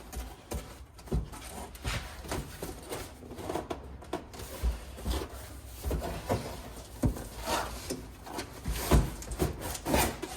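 Unboxing handling noise: packaging rustling, with irregular knocks and clunks as items are lifted out of a box, a few louder thumps near the end.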